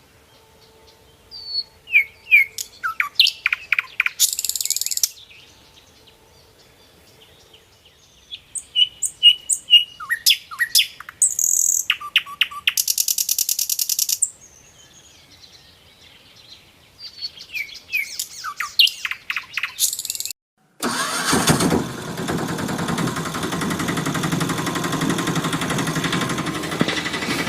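Small birds chirping in three bursts of quick calls and high rapid trills. About three-quarters of the way through, this cuts abruptly to a steady, louder mechanical noise.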